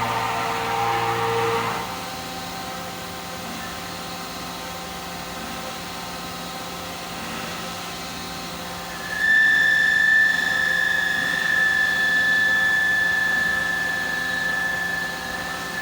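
A five-axis CNC machine runs with a steady hum. A short low drone ends about two seconds in, and about nine seconds in a steady high-pitched whine sets in and holds to near the end.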